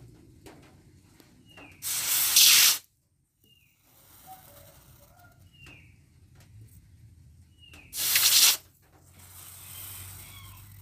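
Two loud hissing rushes about six seconds apart, each under a second long, followed near the end by a softer, longer hiss. Short, falling bird chirps come and go between them.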